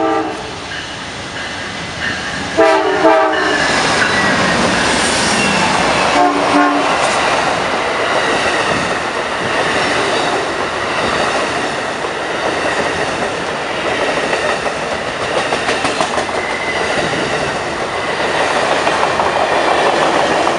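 Amtrak P42 diesel locomotive sounding its horn in blasts as it approaches (near the start, about three seconds in, and a short one around six seconds), warning the track workers at the crossing. Then the passenger train passing close by: a loud, steady rush of wheels on rail with clickety-clack from the bilevel Superliner cars.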